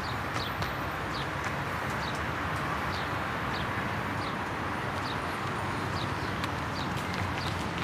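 Street ambience: a steady hum of traffic, with a small bird chirping over it in short falling chirps, about one a second.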